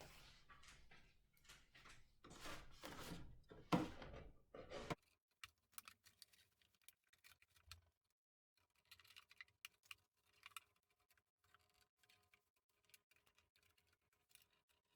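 Scissors cutting through a milk carton: a few crunching snips over the first five seconds. After that, only faint scattered clicks of the carton being handled.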